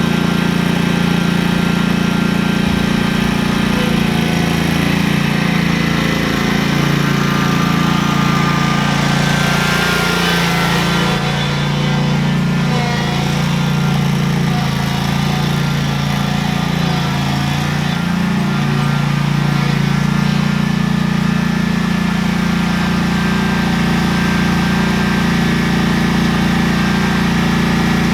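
An engine running steadily at idle, its pitch wavering a little in the middle, as if lightly revved, then settling again.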